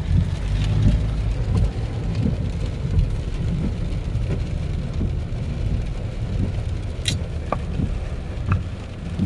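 Inside a moving car in heavy rain: the steady low rumble of the car driving, with rain falling on it and a few faint clicks in the second half.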